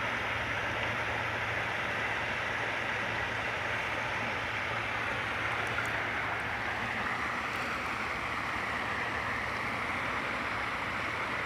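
Steady rush of creek water running over the stream bed, with a low steady hum underneath.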